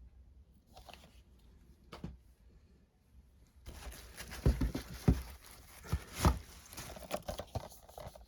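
Packaging and disc cases being handled during an unboxing: a few light clicks, then from about a third of the way in a dense stretch of rustling handling noise with several sharp knocks.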